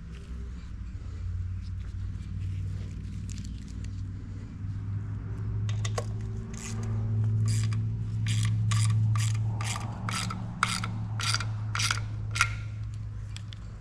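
Ratchet wrench worked in a run of about a dozen quick even strokes, roughly two a second, tightening nuts during the engine rebuild. A steady low hum runs underneath.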